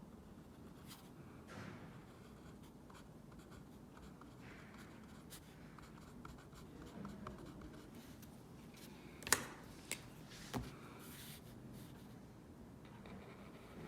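Pencil scratching out lines on a drawing board, with faint intermittent strokes. Three sharp taps or knocks come about two thirds of the way through, the first the loudest.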